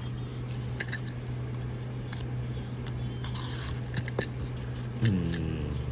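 Trading cards and their plastic sleeves and packaging being handled: scattered light clicks and a brief rustle, over a steady low hum.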